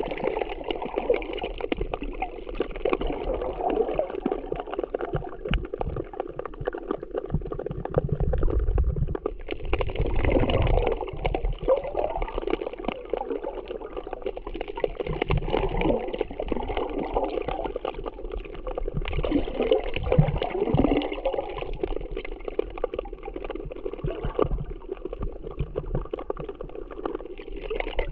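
Sea water sloshing and gurgling in uneven surges, with low rumbling swells now and then, as from a camera at or under the surface of the sea.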